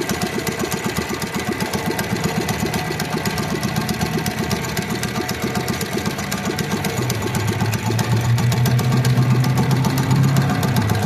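Mini bike's small engine running with a fast, even chug, rising in pitch and getting louder from about seven seconds in.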